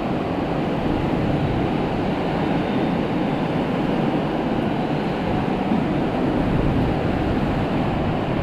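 Rainstorm with strong wind: a steady rushing noise of wind and rain.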